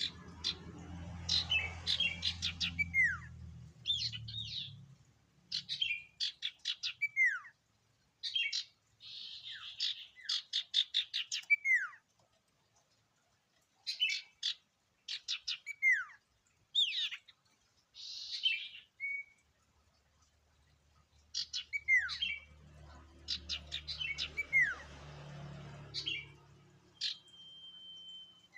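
Sirtu, an iora, singing in bouts of quick high chirps and trills that end in falling whistled slurs, with short silent pauses between bouts. Near the end it gives one long steady whistle. A low hum runs under the first few seconds and again later.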